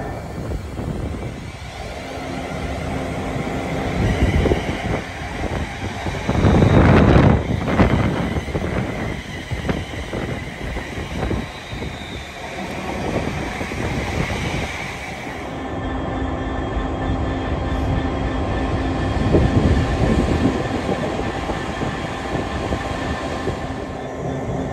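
A passenger multiple-unit train passing close by on the platform line: a loud rush of wheel and rail noise about seven seconds in, then a fast run of wheel clicks over rail joints. It is followed by a steadier low hum with a held tone through the later part.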